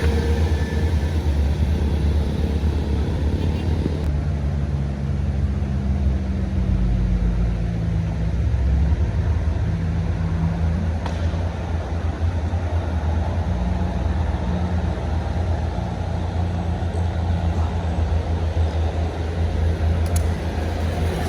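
Motor vehicle engine running with a steady low rumble and road noise; a low engine note sinks slightly between about four and eleven seconds in.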